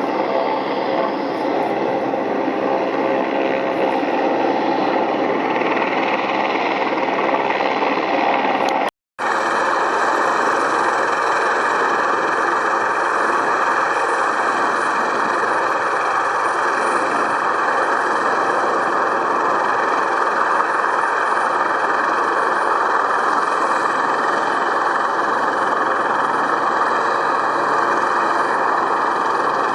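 Airbus Helicopters EC135P3 running steadily, its twin turboshaft engines whining over the rotor noise, with a brief drop to silence about nine seconds in where the recording cuts.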